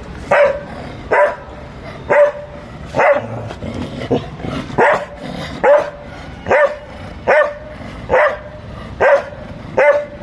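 Dog barking over and over in a steady rhythm, about one bark a second, with a brief pause midway.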